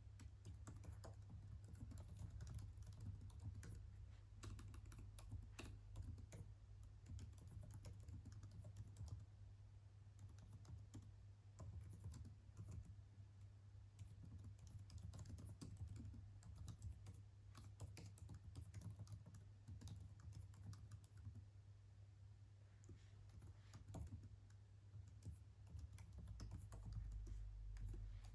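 Faint typing on a computer keyboard: a steady run of quick, irregular keystrokes over a low, steady hum.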